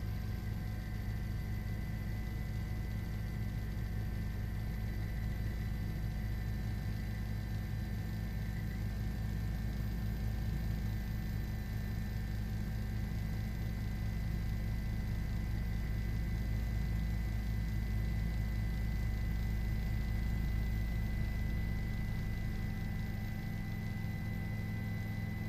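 Steady cabin drone of a news helicopter in flight: a constant low hum with a thin high whine over it.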